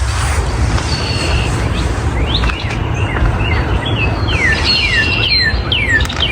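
Birds chirping and singing, a string of short, quickly repeated falling notes crowding together in the second half, over a steady low rumble.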